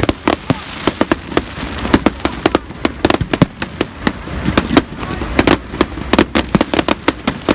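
Fireworks going off in quick, irregular succession: many sharp bangs and cracks, several a second, over a steady low rumble.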